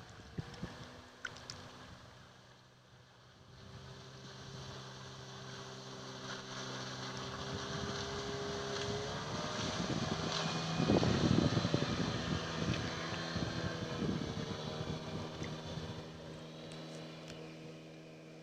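Outboard motor pushing an inflatable PVC boat across the water, its steady drone growing louder toward the middle, rising a little in pitch, then fading away.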